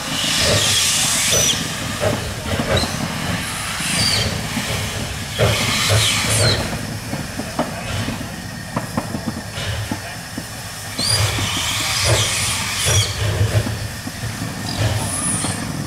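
Two-foot-gauge Hudswell Clarke steam locomotive working on the track, with repeated bursts of steam hiss and short high squeals over a low rumble and clicking of the wheels on the rails.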